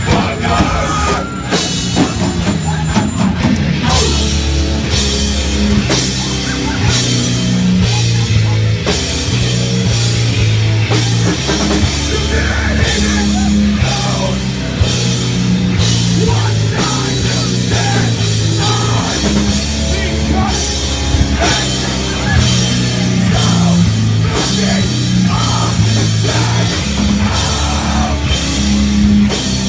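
Hardcore punk band playing live and loud, with drum kit and heavy, repeating low riffs over a steady pounding beat.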